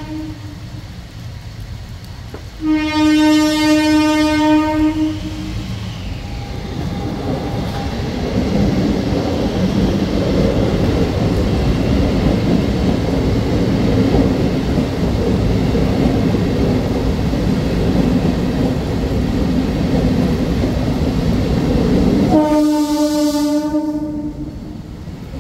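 Indian local passenger train sounding its horn in a blast of about two and a half seconds, then rolling past close by with a steady rumble and clatter of wheels on rails for about fifteen seconds. A second horn blast comes near the end as the last coach passes, and the rumble then fades.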